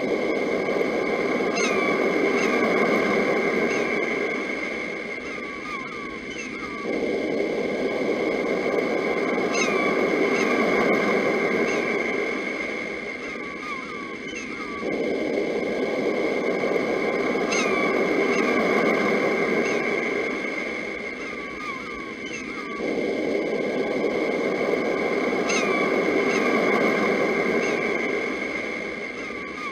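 Sea waves rolling in and washing back, swelling and fading about every eight seconds, with birds chirping over them and a steady high tone underneath.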